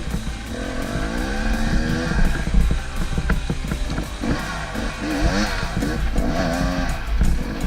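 Dirt bike engine revving. Its pitch climbs steadily over the first couple of seconds, then it gives a run of shorter revs that rise and fall.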